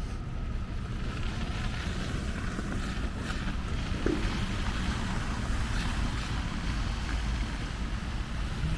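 Snowstorm city street ambience: a steady low rumble of traffic and wind buffeting the microphone, with a few faint ticks.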